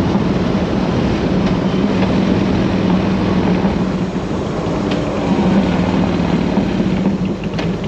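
Harley-Davidson Road King V-twin running steadily at riding speed, with heavy wind rush on the rider's microphone.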